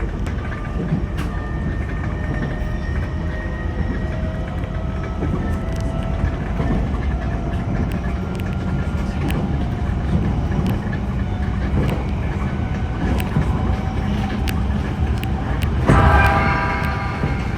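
JR East E721-series electric train running on the rails, heard from inside the leading car: a steady rumble with scattered clicks of wheels over rail joints and a faint motor whine that rises slightly. Near the end a louder pitched sound, about a second long, stands out.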